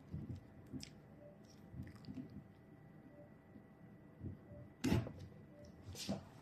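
Handling noises of a repair at a workbench: scattered small knocks and clicks, the loudest a sharp knock just before five seconds in and another about a second later.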